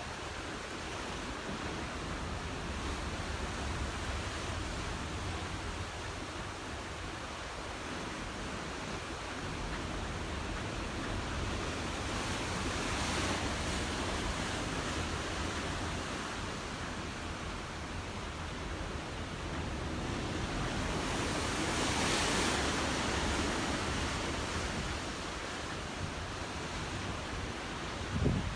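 Steady rushing noise of open-sea wind and waves, swelling twice, with a couple of brief knocks right at the end.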